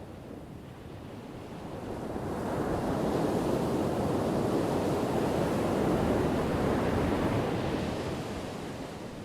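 Ocean waves breaking on a shore. One wave builds about two seconds in, crashes and washes for several seconds, then fades away near the end.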